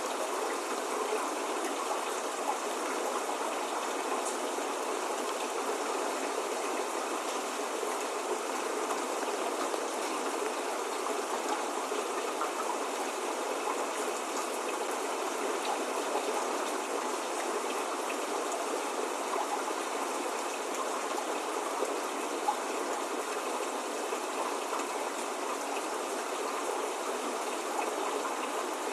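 Steady spring rain falling, an even hiss of many drops with a few faint individual drop ticks, no thunder or birdsong.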